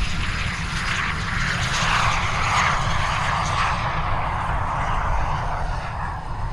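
Canadair CT-114 Tutor single-turbojet trainers passing by in a jet roar. It swells about two seconds in, then drops in pitch and fades as they recede.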